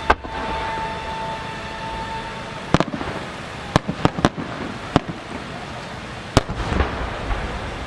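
Aerial fireworks: a sharp report just after the start, then a string of sharp bangs from shell bursts from about three seconds in. The loudest bang comes about six and a half seconds in, as a 10-gō (12-inch) pistil-core peony shell bursts, followed by a brief crackle. A steady high tone sounds through the first two and a half seconds and then stops.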